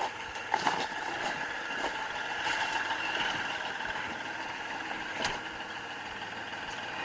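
Kubota L3560 tractor's diesel engine running steadily, with a few sharp metallic knocks from the loader and lifting gear.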